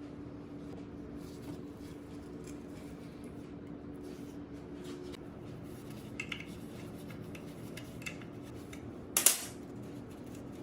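Metal tools and engine parts being handled, with scattered light clicks and clinks and one loud, sharp clank about nine seconds in, over a steady low hum.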